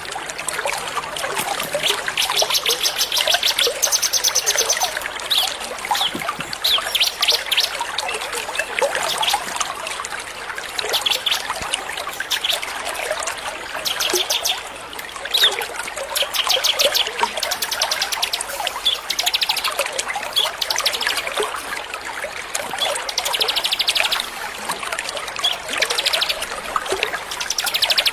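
Small songbirds singing rapid, high chirping trills in short bouts every second or two, over a steady trickle of water. It is a masteran song recording of small birds, the kind played to tutor captive white-rumped shamas.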